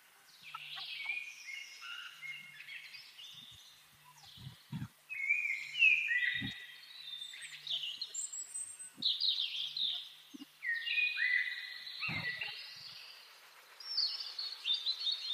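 Birds chirping and singing: a dense run of quick whistled notes that slide up and down, in bursts through the whole stretch.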